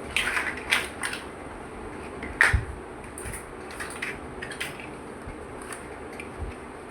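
Plastic Lego bricks clicking and clattering as they are handled and pressed together, in scattered sharp clicks, a quick cluster at the start and the loudest about two and a half seconds in.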